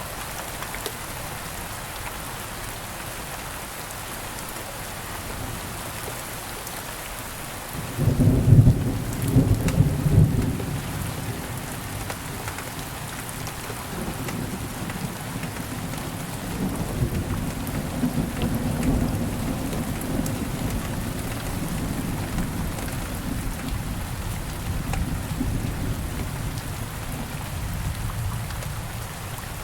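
Steady rain falling, with a sudden loud rumble of thunder about eight seconds in and a longer rolling rumble of thunder from about halfway through that fades near the end.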